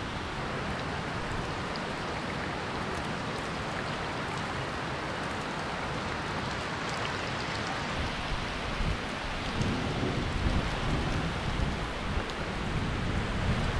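Steady hiss of heavy rain falling on a creek's surface and the rocks around it. In the last few seconds a low rumble swells up underneath the rain.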